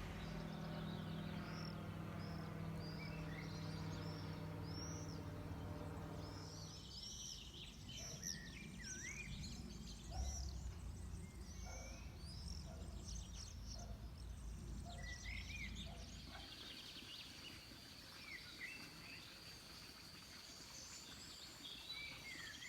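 Small birds chirping and calling repeatedly. A steady low hum runs under them for about the first seven seconds, then stops, and a thin, high, steady whine sets in about two-thirds of the way through.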